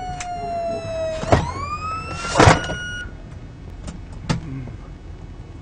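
Police car siren wailing, its pitch sliding down and then climbing again before cutting off about three seconds in. Two loud bursts of noise break in about a second and two seconds in, and a few sharp clicks follow.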